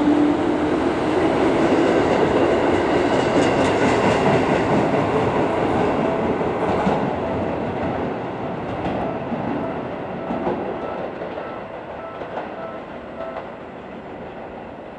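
Seibu 4000-series electric train pulling out and running away along the platform, its running noise and wheel clatter over rail joints fading steadily as it goes.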